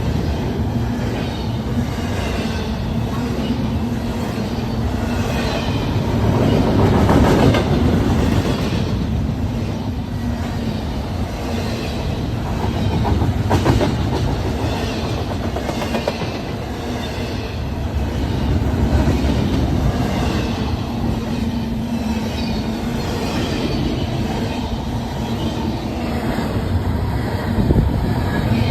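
Freight train cars rolling past, a steady clatter of steel wheels on the rails that rises and falls in regular surges throughout.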